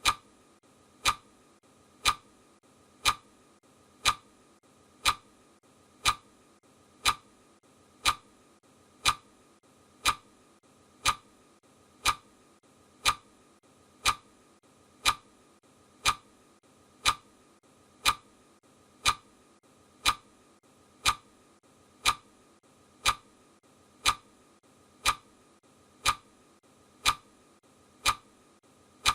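Steady ticking, one sharp tick exactly every second, over a faint steady hiss.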